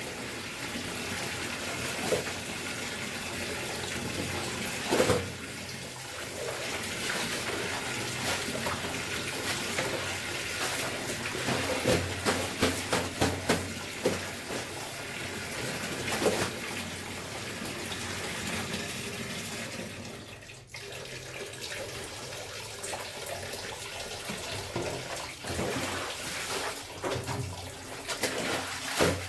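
Running water and splashing as clothes are washed by hand, with scattered short knocks and splashes; the water noise briefly drops about twenty seconds in.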